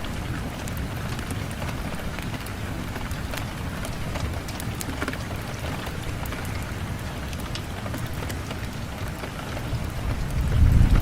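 Steady rain against a window glass: an even patter with scattered sharp drop ticks over a low rumble. The rumble swells noticeably near the end.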